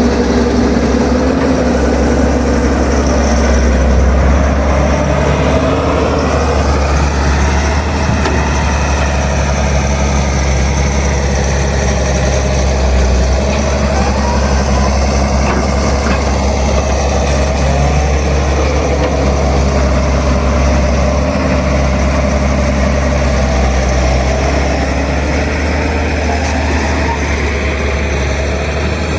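Machine engine running steadily, with a slow rise and fall in pitch about seven seconds in.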